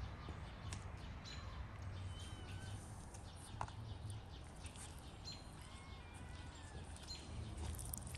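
Faint bird chirps: short, thin whistled calls every second or so, over a steady low rumble, with an occasional faint click.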